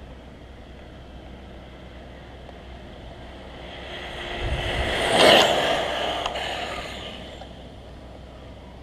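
1/5-scale Rampage V3 RC truck on 8S electric power speeding past. Its motor and tyre noise swell over a few seconds, peak sharply a little past the middle, then fade away.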